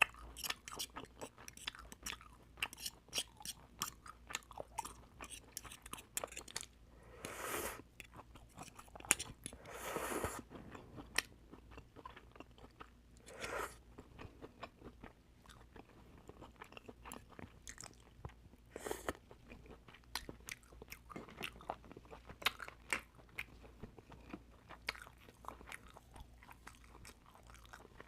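Close-miked chewing of oysters: a dense run of quick wet clicks and crunches, broken by four longer noisy sounds.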